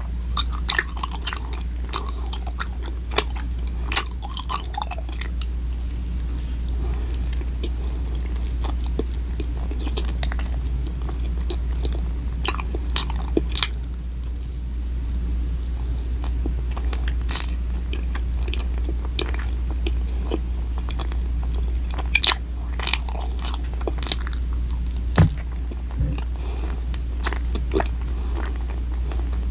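Close-miked chewing and biting of food, with scattered sharp clicks and mouth sounds, over a steady low hum.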